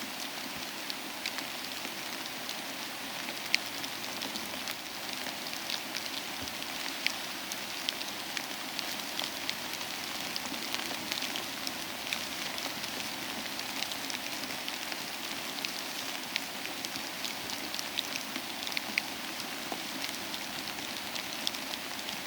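Soft steady rain together with a crackling fireplace: an even hiss of rain dotted with many small, sharp crackles.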